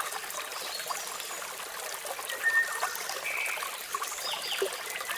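Water falling and trickling steadily, with a few short bird chirps over it, one of them a falling note near the end.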